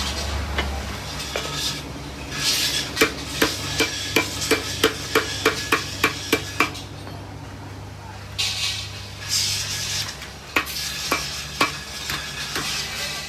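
Rapid, evenly spaced hammer-like knocks, about three a second, over a steady low machine hum, with two short bursts of hiss.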